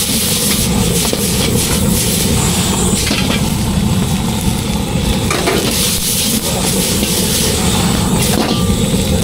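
Rice noodles sizzling as they are stir-fried, over a steady low rumble, with a few sharp clicks.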